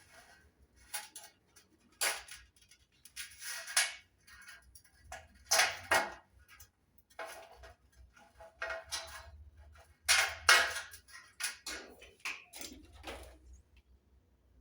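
Hand tin snips cutting a circle out of sheet metal: a series of irregular snips and metallic scrapes with short pauses between, loudest about two, six and ten seconds in.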